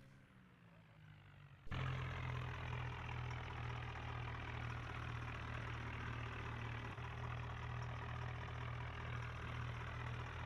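Swaraj tractor's diesel engine running steadily at a constant low speed. It cuts in abruptly at full level about two seconds in, after a quiet start.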